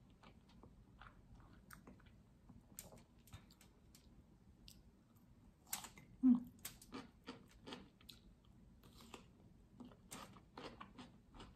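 A person chewing and crunching food close to the microphone, with many small wet clicks and crackles. One louder, short low mouth sound comes about six seconds in.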